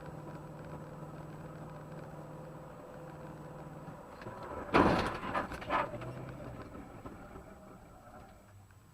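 Steady hum of a car heard from inside the vehicle, then a sudden loud bang about halfway through followed by two smaller knocks.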